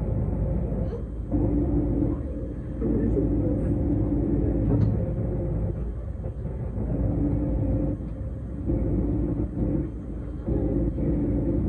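Electric S-Bahn commuter train running between stations, heard from on board: a steady rumble of wheels on the track with a low hum that breaks off and comes back several times.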